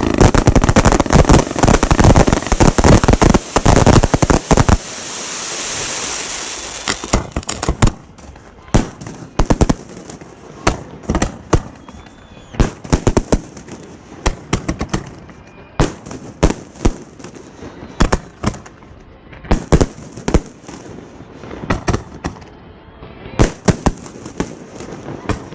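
Firework cake (multi-shot battery) going off at close range: a rapid volley of bangs for about the first five seconds, then a rushing hiss, then single shots about once a second.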